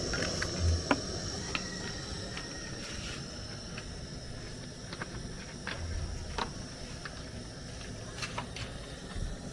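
Food frying in hot oil, giving off scattered sharp pops and crackles over a low hiss, with a steady high-pitched whine behind it.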